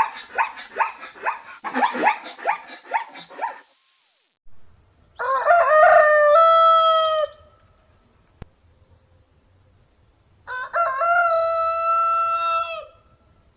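A rooster crowing twice: each crow is a long held call that steps down at the end. Before the crows, in the first few seconds, comes a rapid run of short repeated calls, about six a second.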